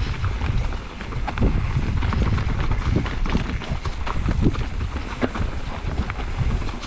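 Mountain bike clattering over rocks on a descent, with irregular sharp knocks from the tyres and frame, over a steady rumble of wind on the microphone.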